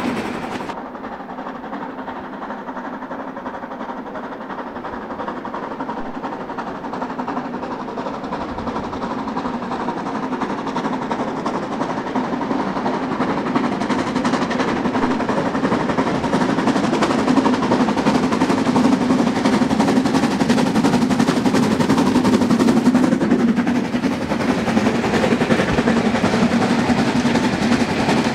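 Narrow-gauge steam locomotive working hard up a steep grade, its exhaust beats coming in a rapid, sharp, unbroken series. The beats grow steadily louder over the first twenty seconds or so.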